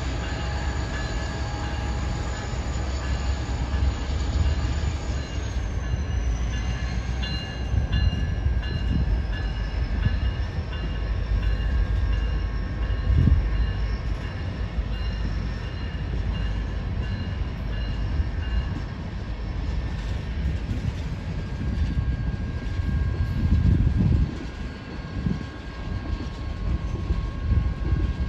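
Train cars rolling past on the rails: a steady low rumble of wheels on track with thin high-pitched tones over it, one of them sliding slowly down in pitch in the first third.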